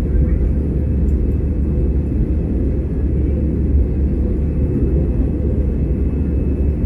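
Steady low rumble of an Airbus A320's engines and airflow heard inside the passenger cabin.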